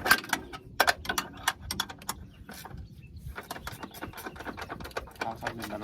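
Hand ratchet wrench clicking while loosening the bolts of a car's front upper control arm for removal, with a few sharper metal knocks, the loudest near the start.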